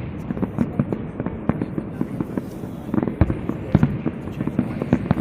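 A castillo aerial fireworks display with shells bursting in quick succession: a continuous string of bangs and crackles, several louder booms standing out among them.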